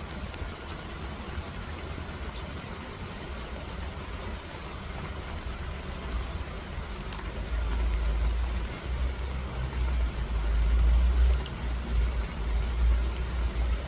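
Steady rainfall pattering on surfaces. About halfway through, a deep, uneven low rumble builds in under it and grows louder.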